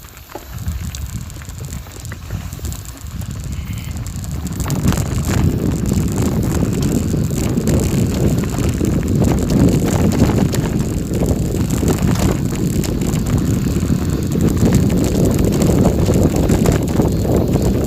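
Wind buffeting the microphone, with a steady rattling and clicking of motion over a rough surface. It grows louder over the first five seconds and then holds steady.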